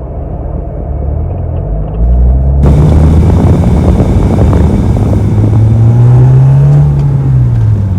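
Car engine running, revved once about five seconds in: the pitch rises, then falls back to idle.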